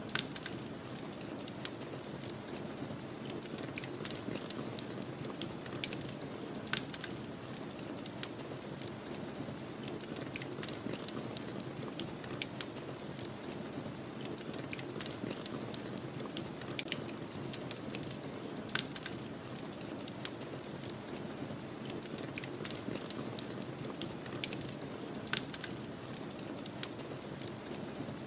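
Wood fire crackling: irregular sharp pops and snaps, several a second in clusters, over a steady low rush of snowstorm wind.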